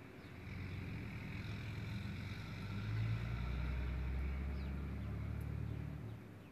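Low engine rumble of a vehicle passing outside, building, loudest about three to four seconds in, then fading away near the end.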